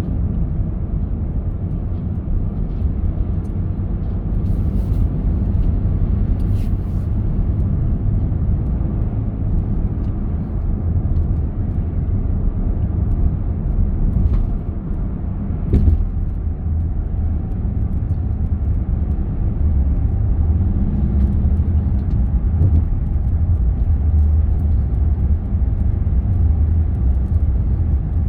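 Car on the road: steady low rumble of tyre and engine noise, with one short knock a little past halfway.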